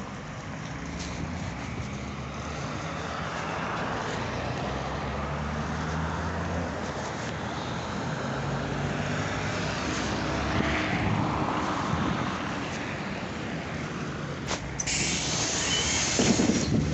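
ZiU-9 trolleybus running along the road: a steady hum from the electric drive with tyre and road noise, the hum shifting in pitch as it speeds up and slows. About fifteen seconds in, a loud hiss lasts roughly two seconds.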